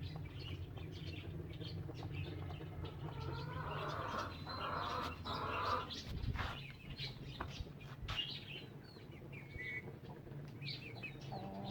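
Cage birds chirping in short, scattered calls, with a spell of rustling around the middle and a steady low hum underneath.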